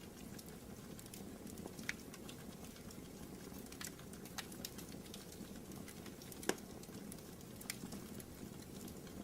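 Wood fire burning in a fireplace: a steady low rush of flames with irregular sharp crackles and pops, the loudest pop about six and a half seconds in.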